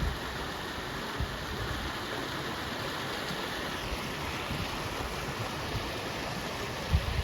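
Swollen creek in flood, fast-running water rushing steadily, with wind buffeting the microphone near the end.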